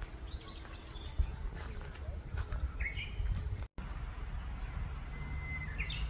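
Wild forest birds calling in short chirps and whistled notes over a low, steady rumble. The sound cuts out for an instant about two-thirds of the way through.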